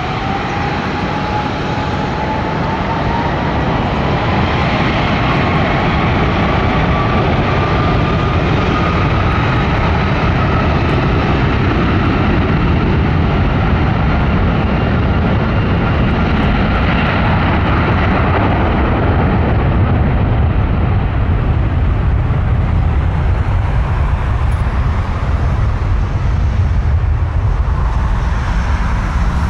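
Jet airliner's engines at take-off thrust: a loud, steady rushing noise with a deep rumble, and a whine that rises in pitch over the first ten seconds or so as the engines spool up, then fades into the rumble.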